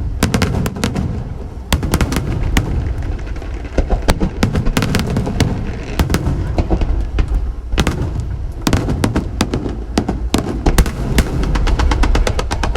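Fireworks display: shells bursting in quick, irregular succession, sharp bangs and cracks over a constant low rumble, the bangs coming thicker near the end.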